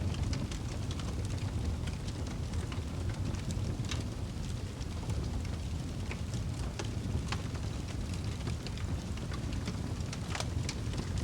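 Wood fire burning in a fireplace: a steady low rumble of the flames with frequent sharp crackles and pops at irregular moments.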